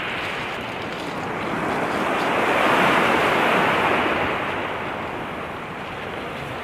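Sea and wind noise, rising to a peak about three seconds in and then dying back, like a wave washing in, with wind on the microphone.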